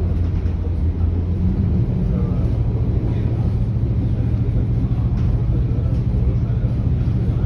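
Steady low rumble of a commuter train carriage in motion, heard from inside the carriage. The low drone steps up slightly in pitch about a second and a half in.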